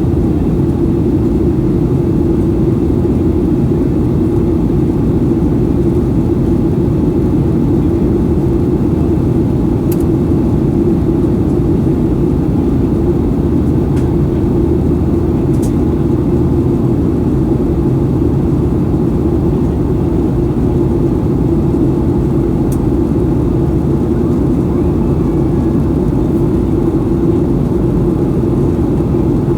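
Steady cabin noise of a Boeing 737-800 in flight: the CFM56-7B engines and airflow make an even, unchanging rumble, heaviest in the low range, with a few faint ticks.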